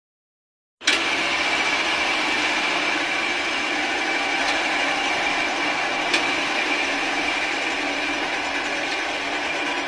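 Airplane engine noise, a steady hiss with a constant high whine, cutting in abruptly about a second in after silence.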